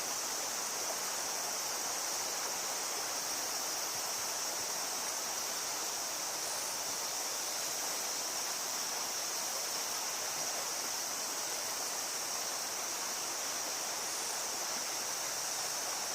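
Steady rushing of flowing river water, with a constant high-pitched drone over it.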